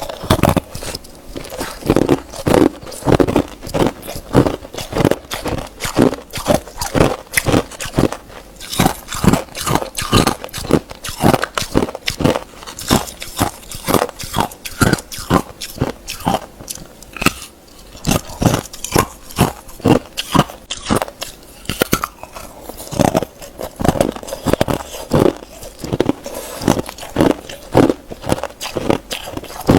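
Hard ice being bitten and chewed close to the microphone: a steady run of loud, crisp crunches, several a second.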